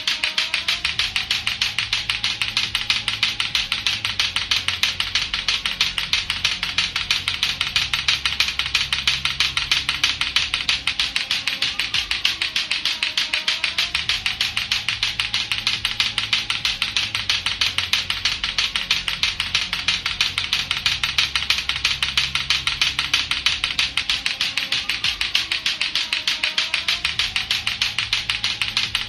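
Lato-lato clackers, two hard plastic balls on a string, knocking together in a fast, steady run of clacks.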